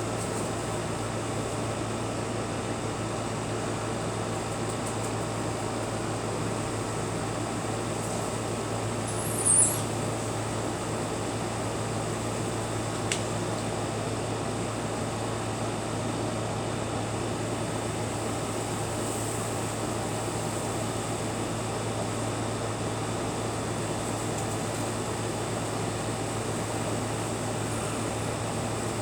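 A steady, even hum with hiss throughout, with a brief high chirp about nine seconds in.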